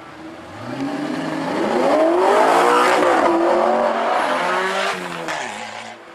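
Supercar with an Akrapovic exhaust accelerating past. The engine note climbs and swells to its loudest about halfway through, then drops in pitch and fades as the car goes by.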